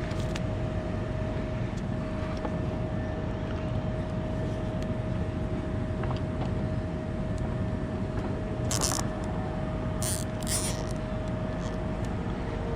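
Bucket truck's engine running steadily, a low rumble with a constant whine over it. A few short, sharp hissing or clicking noises come near the end.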